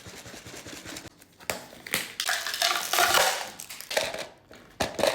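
Rustling and clattering of a Yopokki instant rice-cake cup and its packaging being handled, irregular and loudest around the middle.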